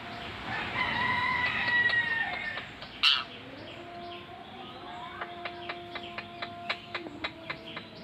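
A crowing call like a rooster's, about two seconds long and falling slightly in pitch, then a single sharp squawk and, near the end, a quick run of clicking chirps.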